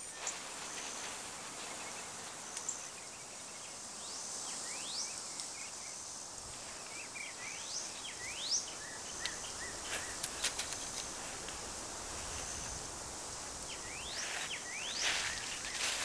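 Outdoor ambience: a steady background hiss with a bird repeatedly calling in short, rising whistled notes, and a few faint clicks about two-thirds of the way through.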